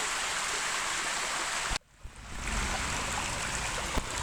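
Rain-fed creek water rushing over rocks, a steady hiss. It cuts out suddenly for about half a second partway through, then comes back with more low rumble underneath.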